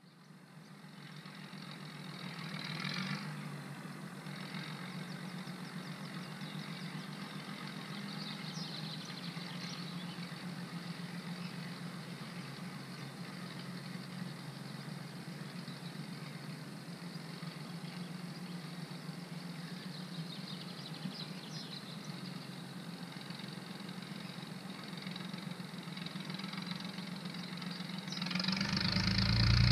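Tractor engine running steadily at a low level, growing louder and fuller near the end.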